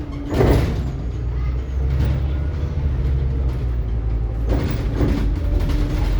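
Scania K360IB city bus running on the move, heard from inside the cabin as a steady low engine and road rumble. Two short louder noisy bursts break through, about half a second in and again about four and a half seconds in.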